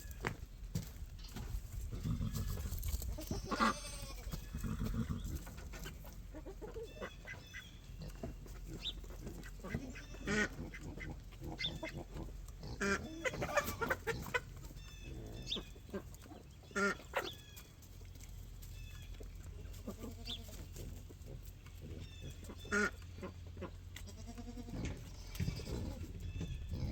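Birds calling: many short calls one after another throughout, with a handful of louder calls standing out above the rest, over a low background rumble.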